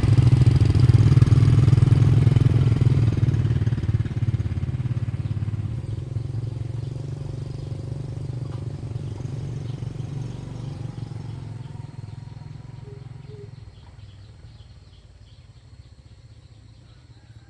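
Motorbike engine running, loud at first, then fading steadily over about fourteen seconds as the bike moves off.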